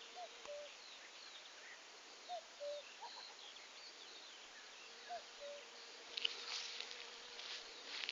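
Birds calling: a low two-note call, the second note lower, repeats three times, over scattered high chirps. About six seconds in comes a short crackling rustle, the loudest sound.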